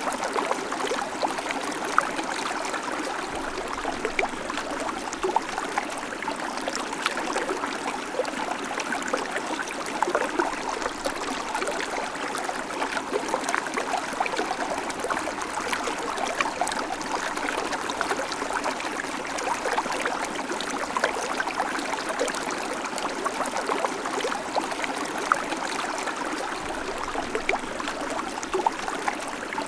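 Babbling creek: shallow water running steadily over stones, with constant small splashes and gurgles.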